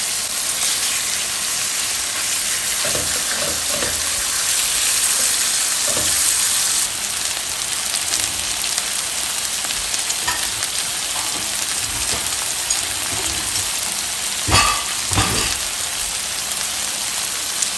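Chicken pan-frying in oil and butter in a braiser, a steady sizzle. Two knocks come about fourteen and a half and fifteen seconds in.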